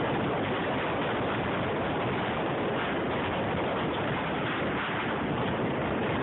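Steady rushing wind noise across the microphone, an even roar with no breaks.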